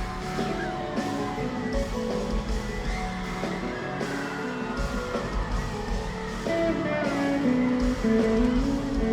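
High school marching band playing a tune, a melody stepping over a low pulsing bass, with a line climbing in pitch near the end.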